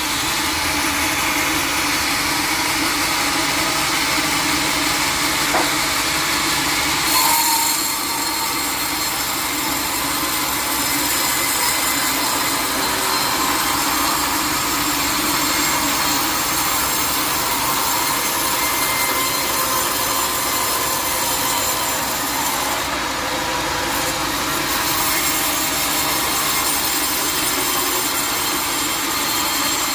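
Sawmill saw cutting through a teak log, running steadily through the cut, with a brief louder moment about seven seconds in.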